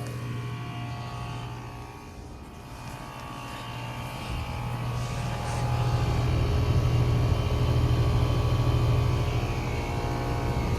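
Rheem Endeavor RP14 heat pump outdoor unit running through its defrost cycle: a steady low hum with a tone that falls in pitch over the first couple of seconds, then the sound grows louder and holds steady.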